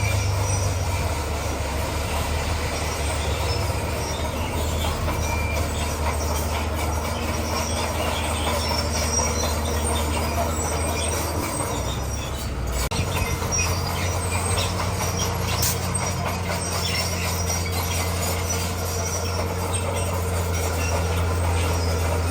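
Crawler bulldozer at work: its diesel engine runs steadily under load while the steel tracks squeal and clank. The engine note changes about halfway through.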